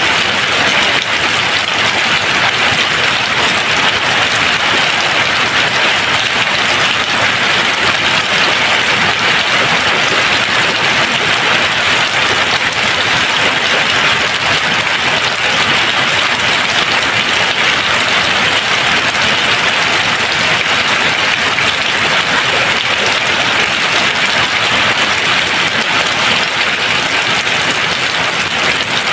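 Steady, even rain falling on a surface, with no thunder.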